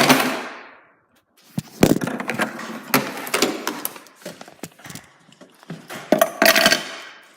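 Irregular knocks and thumps: a loud one at the start, then clusters about two, three and six seconds in.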